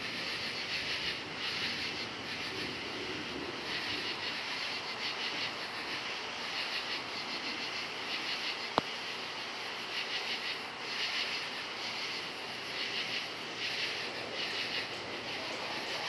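Crickets chirping in a dense chorus that swells and fades in pulses, over a steady low noisy background. A single sharp click about nine seconds in.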